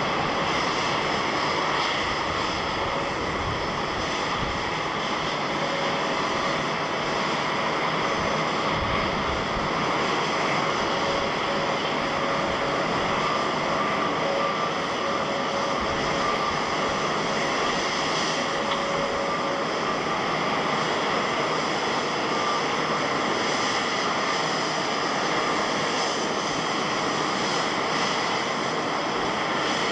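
Jet airliner engines running in a steady roar, with a faint high whine over the noise that fades out about two-thirds of the way through.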